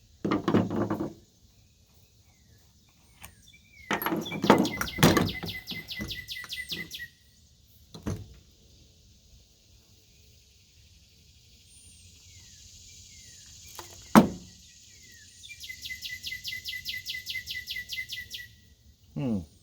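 A songbird singing a fast, even trill twice, each about three seconds long. In between come a few short knocks and clunks, the sharpest about fourteen seconds in.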